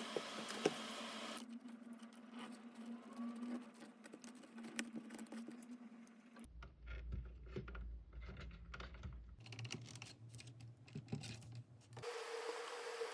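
Irregular small clicks and taps of hands handling and fitting parts of an electronic device during reassembly, over a low hum whose character changes abruptly several times.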